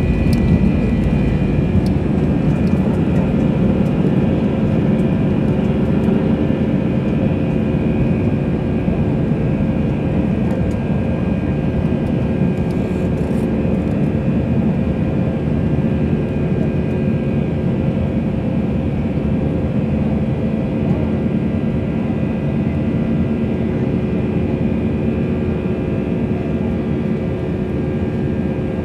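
Airbus A319 jet engines at high thrust during takeoff, heard from inside the passenger cabin: a loud, steady roar with several steady whining tones over it, easing off slightly toward the end.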